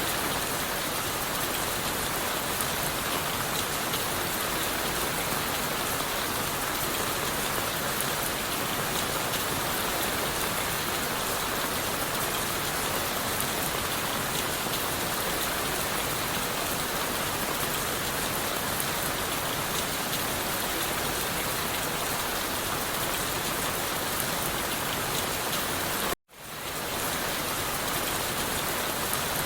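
Steady rain falling on leaves and wood, an even hiss with no letup. Near the end the sound cuts out abruptly to silence for a moment, then fades back in.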